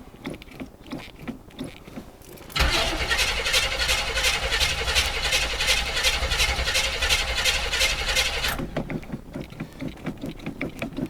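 Starter cranking the 1981 Chevy Blazer's small-block V8 for about six seconds in a fast, even rhythm without the engine catching, starting and stopping abruptly, with faint ticking before and after. It is a cold start with no choke, and fuel has not yet fully reached the carburetor.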